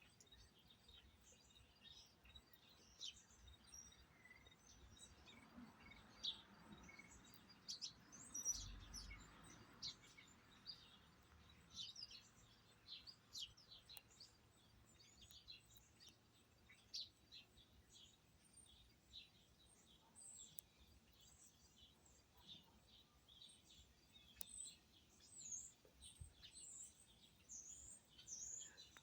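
Wild birds chirping: many short, high calls scattered throughout, faint, with a brief low thump about nine seconds in.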